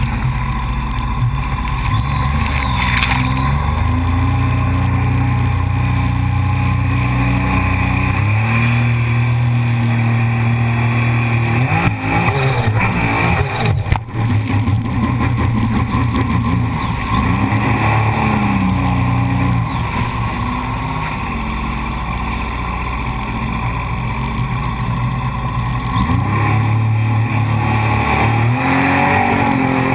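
Jet ski engine running, its pitch rising and falling several times as the throttle is opened and eased off.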